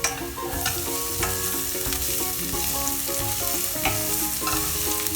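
Chopped onions, ginger and garlic sizzling in hot oil in a pan while being stirred, with a utensil knocking against the pan a few times.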